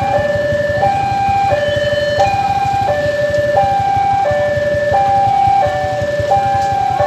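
Railway level crossing warning alarm sounding: two electronic tones alternating high and low, each held about two-thirds of a second, over a low rumble.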